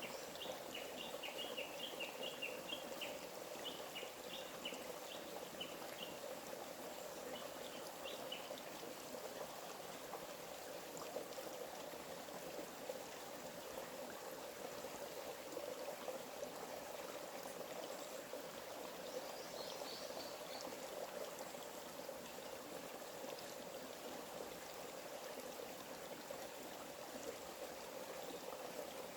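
A small forest stream running steadily. Birds chirp in quick runs over it for the first several seconds and again briefly about two-thirds of the way through.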